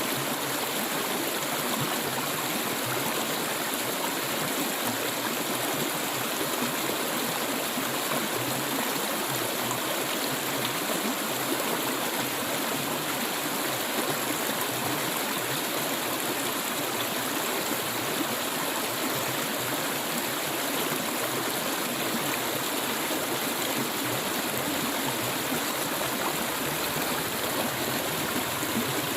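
Clear stream water flowing steadily, an even, continuous rush.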